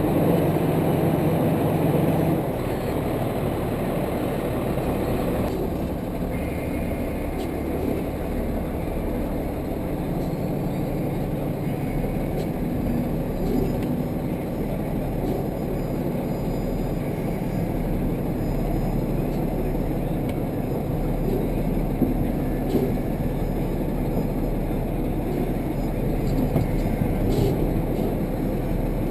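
Tractor-trailer diesel engine running steadily at low revs.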